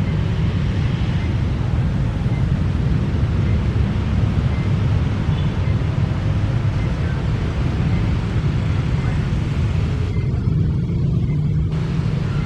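A train passing a level crossing: a loud, steady low rumble, with a faint high ding repeating about once a second from the crossing bell.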